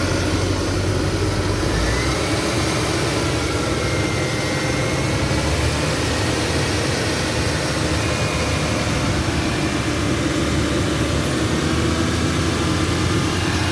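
Porsche Cayman flat-six engine idling steadily and quietly, with no unusual noises: a healthy idle with the A/C compressor engaged. A low hum drops away about two seconds in.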